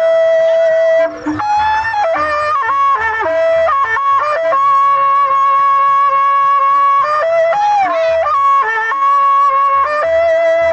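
Traditional Sasak peresean music: a shrill double-reed shawm plays a wavering melody of long held notes that slide between pitches, over low drum beats.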